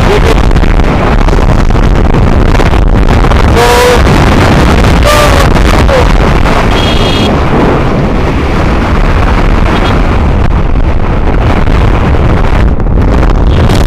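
Loud wind buffeting the microphone on a moving motorbike, with engine and road noise underneath. A few short pitched tones sound about four and five seconds in.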